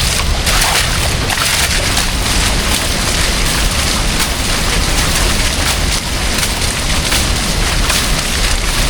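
Steady, loud rushing of river water.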